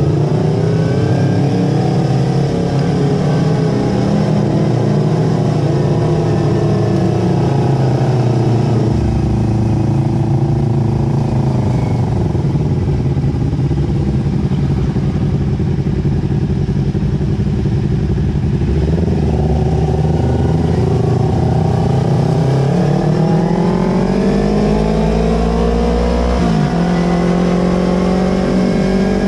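Yamaha R25's parallel-twin engine running through an aftermarket Villan Pro 2 exhaust, its note rising near the start, holding fairly steady, then climbing steadily in the last third with a brief dip near the end.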